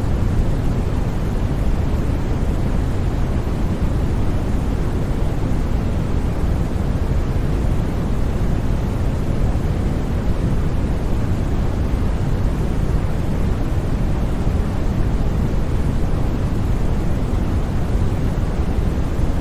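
Steady white noise from a sleep-sound track: an unbroken, even hiss weighted toward the deep end, with no changes, tones or sudden sounds.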